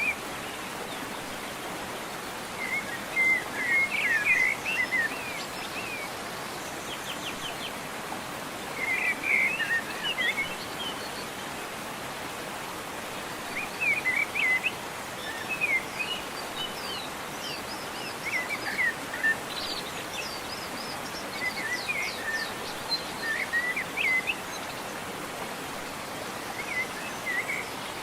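Steady rush of a waterfall, with a songbird singing short, quick phrases of chirps every few seconds over it.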